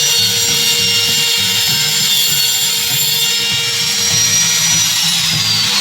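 Electric power tool running steadily and loudly, with a high motor whine that falls in pitch near the end.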